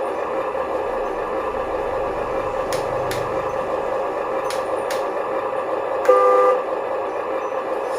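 Electric motor and gearbox of a Huina 1573 RC dump truck whining steadily, with a few light clicks. A short horn toot sounds about six seconds in.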